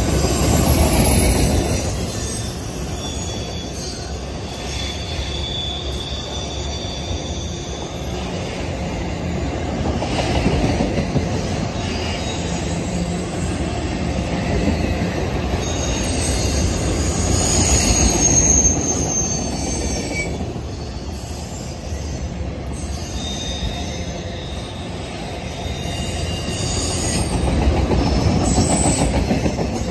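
Autorack freight cars rolling past close by: a steady low rumble of steel wheels on rail that swells and eases as the cars go by, with thin high wheel squeals coming and going.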